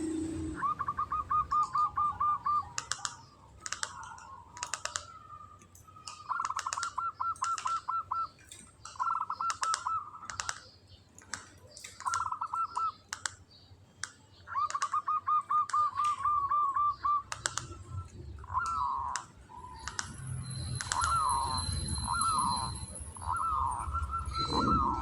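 Local zebra dove (perkutut) singing: short bursts of rapid, even, trilled cooing at a steady pitch, repeated every few seconds. Sharp short chirps come between the phrases, and near the end the notes turn into quick downward swoops.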